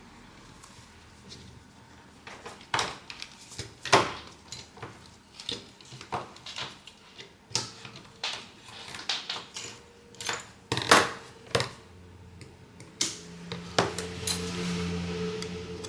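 Small metal tools and phone parts being handled on a repair bench: a string of sharp, irregular clicks and taps. A low steady hum starts near the end.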